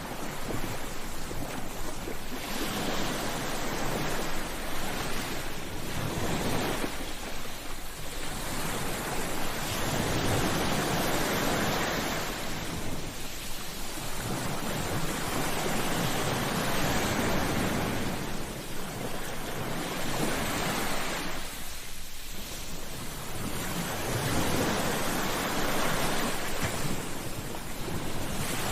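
Sea waves breaking on a shore, the surf swelling and washing back in slow surges every few seconds.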